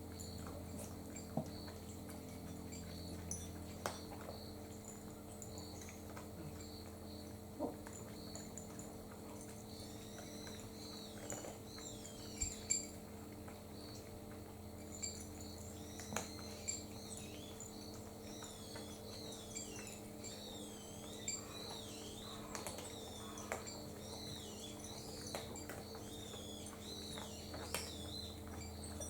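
Small birds chirping and twittering in quick wavering calls. They start about a third of the way in and grow busier toward the end. Scattered sharp clicks and clinks of cats eating from their bowls sound over a steady low hum.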